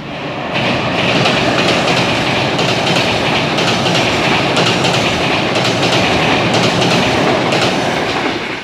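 Intercity train hauled by an ADtranz DE 2000 diesel-electric locomotive crossing a steel truss bridge: a loud, steady rumble with irregular wheel clatter over the rails. It swells over the first second and falls away right at the end.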